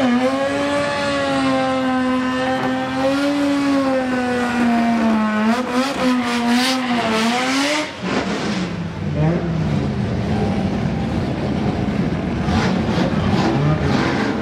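Nissan Skyline GT-R (R32)'s twin-turbo straight-six held at steady high revs with tyre squeal, as in a drag-strip burnout. About eight seconds in, the revs drop off sharply and the engine runs rough and uneven at low revs.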